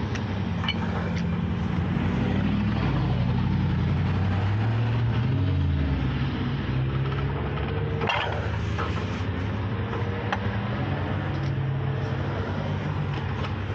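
A truck engine running, its pitch rising and falling as the revs change, with a sharp knock about eight seconds in.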